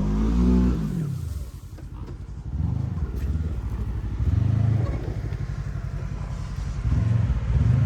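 UTV engine working a ditch obstacle, revved in several short throttle bursts: a low engine note that rises and falls about four times.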